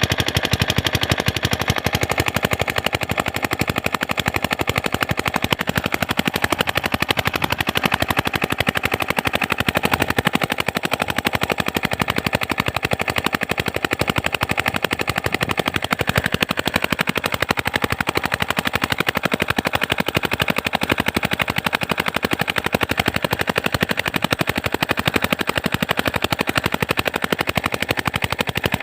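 Single-cylinder 7 hp diesel engine running steadily under load while driving a water pump, with a rapid, even chug of exhaust pulses.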